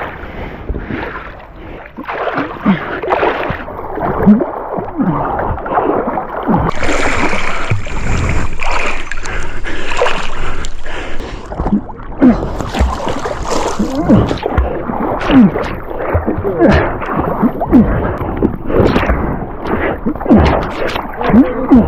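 River water splashing and gurgling close around a small boat, with frequent irregular knocks and bumps. It gets brighter and hissier for a few seconds about a third of the way in.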